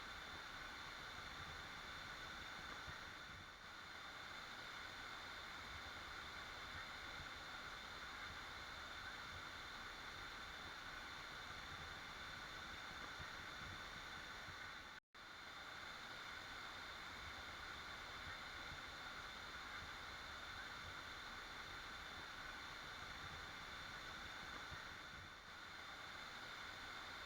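Waterfall rushing, a steady even roar of falling water, which cuts out for an instant about halfway through.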